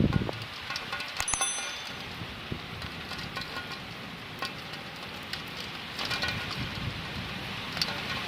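Steady rain falling: an even hiss scattered with small drop ticks. A low rumble swells briefly at the start and again about six seconds in.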